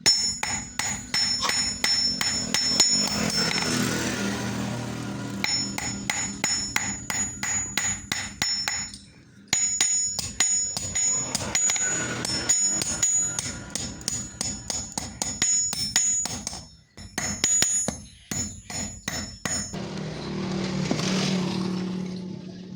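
Hammer blows on hot steel over an anvil in a fast, steady rhythm of about five strikes a second, each with a high metallic ring, pausing briefly twice. A rushing noise swells up twice beneath the strikes.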